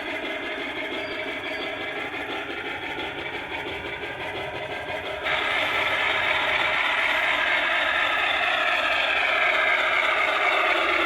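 O gauge model train running on its garden track, a steady mechanical running noise from the locomotive and wheels. It gets abruptly louder about five seconds in.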